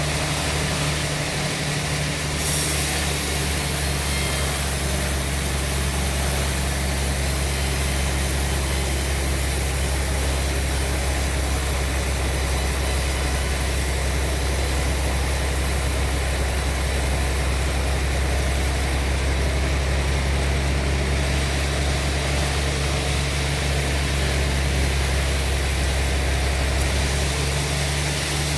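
Sawmill machinery running steadily: an engine's constant low hum under a steady wash of mechanical noise, with no pauses.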